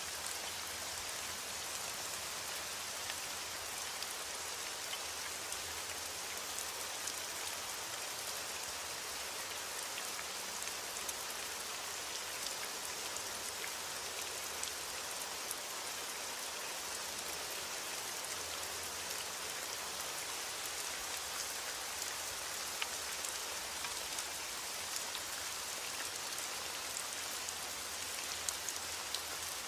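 Heavy rain falling steadily on a window, an even hiss, with scattered small ticks and pops throughout.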